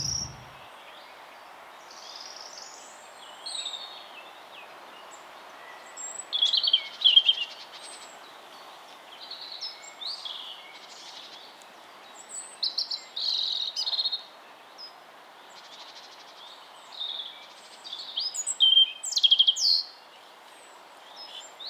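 Several songbirds singing and calling in short chirps, whistled phrases and quick trills, coming every second or two, over a faint steady background hiss.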